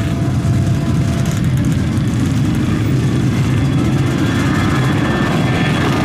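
Jet airliner engines running with a steady low rumble and a faint high whine.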